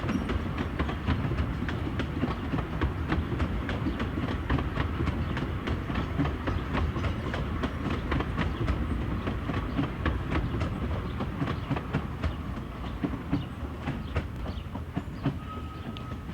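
Bure Valley Railway's 15-inch gauge train running along the track: a steady rumble with many sharp clicks of the wheels over the rails. A faint thin whine comes in near the end.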